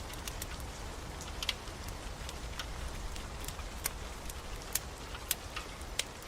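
Steady rain with a low rumble, mixed with a wood fire crackling: about a dozen sharp, irregular pops.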